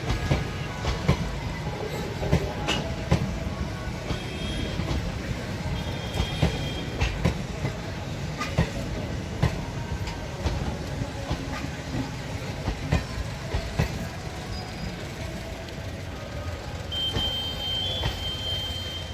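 Passenger train coaches rolling along the track: a steady rumble with irregular sharp clacks of steel wheels over rail joints. A high steady tone comes in near the end.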